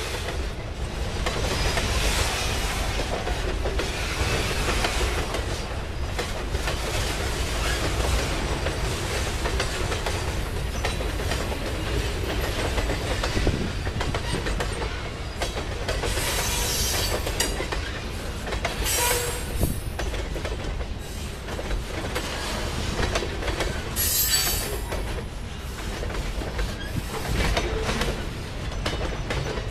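Freight train's boxcars rolling past, a steady rumble with wheels clacking over the rail joints. Brief high-pitched wheel screeches come a few times in the second half.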